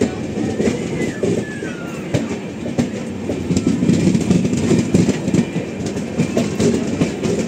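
Two passenger trains running side by side on parallel tracks: a steady wheel rumble with irregular clicks and clatter of the coaches' wheels over rail joints, and faint high squeals now and then.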